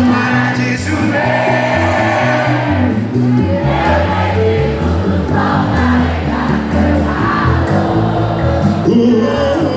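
Live sertanejo band music with a crowd singing along.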